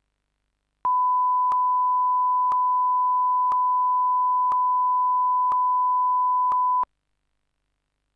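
Steady pure electronic test tone at one unchanging pitch, starting about a second in and lasting about six seconds, with a faint click about once a second, then stopping abruptly.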